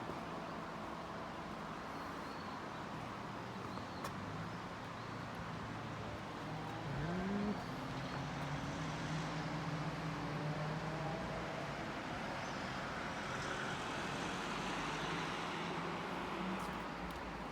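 A motor vehicle's engine running steadily as a low hum, rising briefly in pitch about seven seconds in, over a steady hiss.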